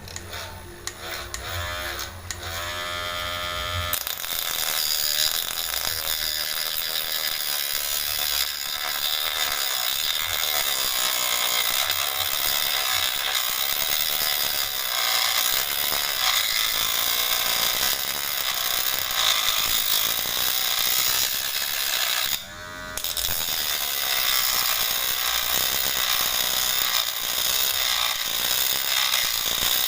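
Electric motor of a homemade combination grinder-and-drill machine spinning up over the first few seconds, then running steadily with a loud high hiss. It cuts out briefly about 22 seconds in and spins up again.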